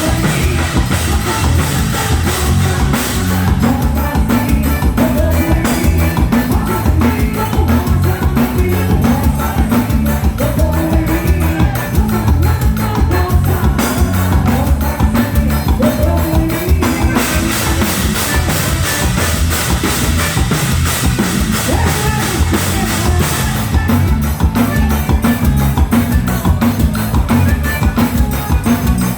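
Forró band playing, with a drum kit keeping a steady beat under a melody line.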